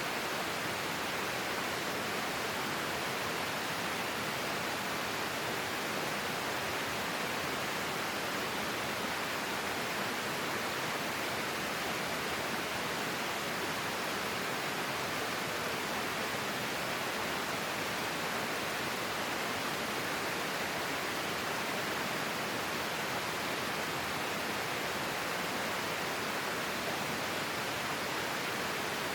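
Flowing stream of water, a steady, even rush with no distinct bird calls standing out.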